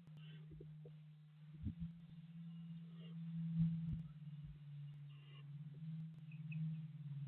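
Steady low hum, with a few faint knocks and brief faint high chirps near the end.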